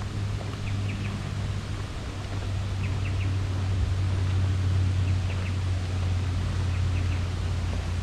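Small birds chirping in short clusters of two or three quick notes, repeated about every two seconds, over a steady low rumble.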